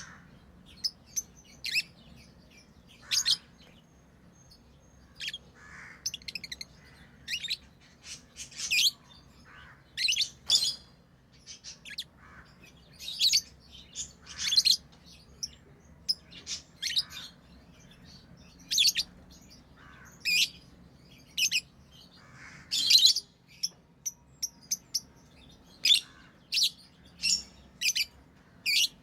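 Pet lovebirds chirping: many short, sharp, high-pitched calls at irregular intervals, often a second or less apart.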